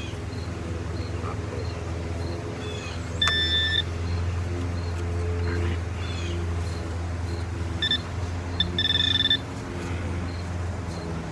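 Metal detector beeping as it sweeps over a buried metal target: one short steady beep about three seconds in, then a few quick chirps and a longer beep around eight to nine seconds, over a steady low hum.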